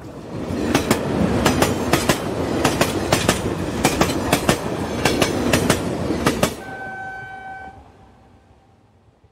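A train running, heard from aboard: a steady rumble with sharp clickety-clack as the wheels pass over rail joints. After about six and a half seconds the running noise drops away, a train horn sounds one steady note for about a second, and everything fades out.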